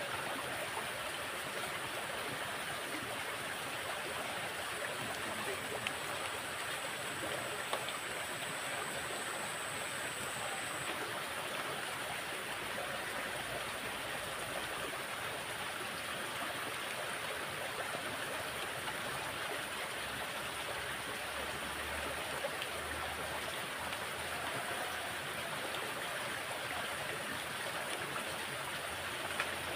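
Water flowing steadily in a drainage ditch after heavy rain, an even rushing that does not change, with a faint high steady tone over it for roughly the first ten seconds.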